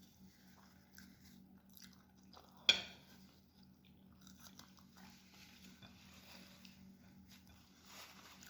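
Close-up chewing of lagman spinach noodles, soft wet mouth sounds, with one sharp click about a third of the way in.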